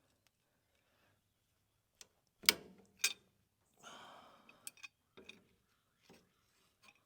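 Sharp metallic clicks and clanks of hand tools being handled against metal. There are two loud clanks about two and a half and three seconds in, a short scraping rustle, then a few lighter clicks.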